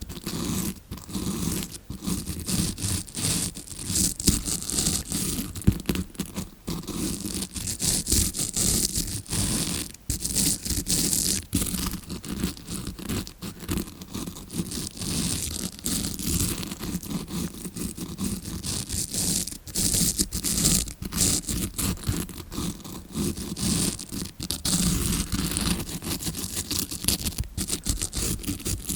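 Close-miked, rapid scratching and rustling of a tawashi scrubbing brush, imitating ear cleaning as heard from inside the ear at the eardrum. It goes on without a break in quick strokes, some louder than others.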